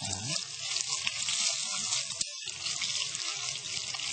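Marinated beef sizzling in hot oil in a wok, stirred with a wooden spoon, a steady hiss as it is par-cooked to about 80 percent done. A single short knock about two seconds in.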